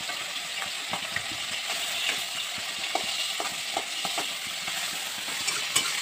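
Sliced onions and chillies sizzling steadily in hot oil in a wok, with a steel spatula scraping and clinking against the pan several times as it stirs.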